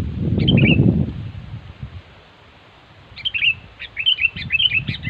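Sooty-headed bulbul (kutilang) calling: one short chirp about half a second in, then a quick run of bubbly chirps from about three seconds in. A low rumbling noise covers the first second and a half.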